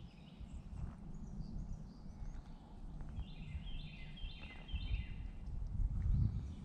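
A songbird sings a quick run of high, repeated chirps about three seconds in, with fainter high notes before it. Under it is a low rumble from the paddled boat and water, loudest near the end.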